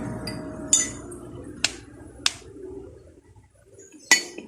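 Metal tools or parts clinking against each other in four sharp, ringing strikes spread over a few seconds, over a fading low background hum.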